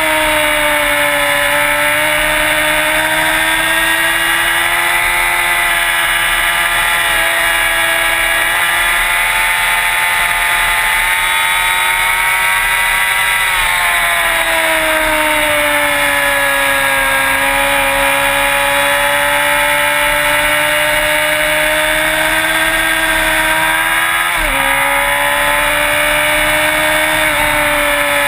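Motorcycle engine running steadily at high revs, its pitch drifting slowly. The pitch falls about halfway through and dips sharply for a moment near the end.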